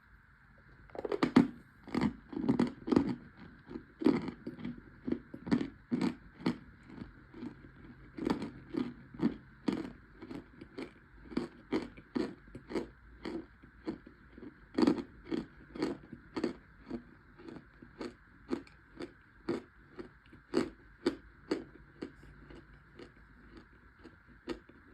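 Close-miked chewing of crunchy toasted cornstarch chunks: sharp, crisp crunches about two a second, loudest in the first few seconds, then steady chewing.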